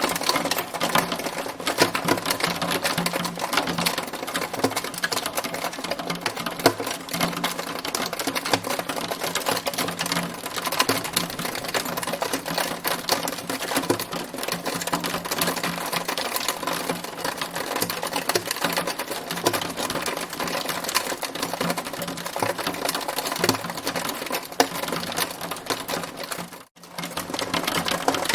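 Hailstones pelting a hard surface: a dense, continuous rattle of countless small impacts, broken only by a brief dropout near the end.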